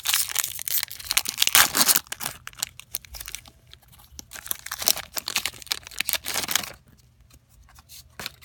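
Foil Pokémon booster pack being torn open and crinkled by hand, in several spells of tearing and crackling that die down near the end.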